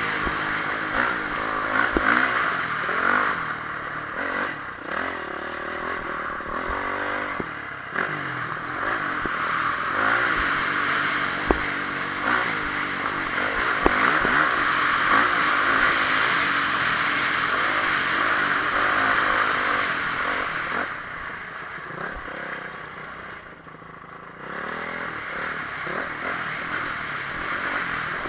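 Honda CRF450R single-cylinder four-stroke motocross engine being ridden hard, its revs rising and falling with throttle and gear changes, with a few sharp knocks along the way. The level drops briefly about three-quarters of the way through, then picks up again.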